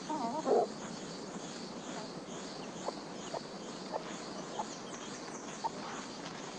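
A chicken squawks briefly near the start, then a few soft, sharp clicks over a steady outdoor background with faint high chirping.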